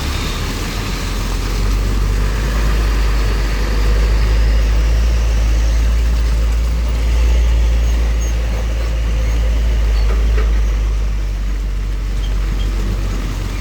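Heavy trucks driving past on the road: a deep, steady engine rumble that swells and eases as the vehicles go by.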